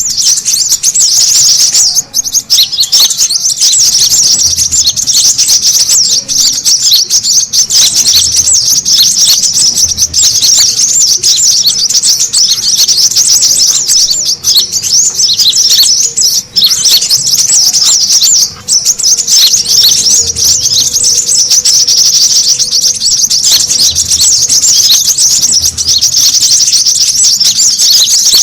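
Brown-throated sunbird (kolibri kelapa) calling excitedly: a loud, dense, almost unbroken stream of rapid high-pitched chirps and twitters, with a couple of brief breaks. It is a lure recording meant to draw other birds in.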